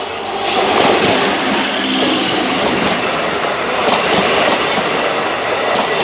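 Electric multiple unit (EMU) local train passing close by, its wheels clattering over the rail joints amid a loud steady rush of noise from the coaches. The noise jumps up about half a second in as the front of the train draws level.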